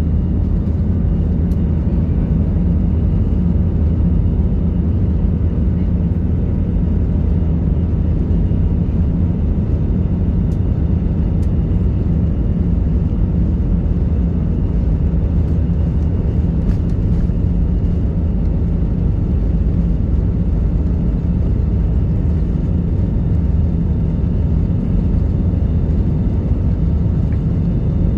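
Aircraft engines during takeoff, a steady low drone with no rise or fall.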